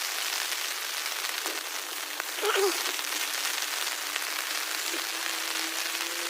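Steady rain falling, a dense patter of many small drops. A brief short sound about two and a half seconds in, and a faint steady hum from past the middle.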